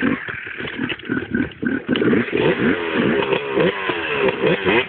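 Several motocross bikes revving hard on the track, the pitch of their engines rising and falling over and over as they accelerate and shift.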